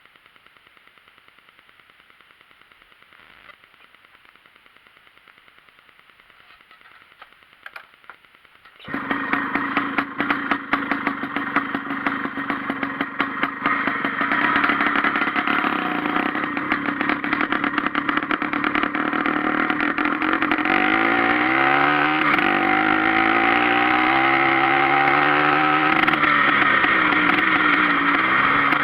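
Straight-piped Sachs Hercules moped's two-stroke engine: a few knocks at first, then the engine comes in suddenly about nine seconds in and runs loud, its pitch rising and falling as it is revved and ridden in the second half.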